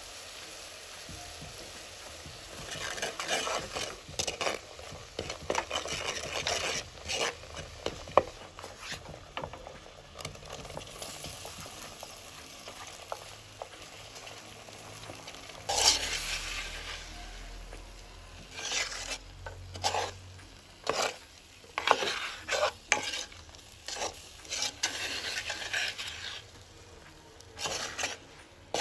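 Chili powder sizzling in hot oil in a cooking pot, then a spatula scraping and stirring it in repeated strokes. About halfway through there is a loud sizzle as sliced rose apples are tipped in, followed by a series of stirring strokes with short pauses between them.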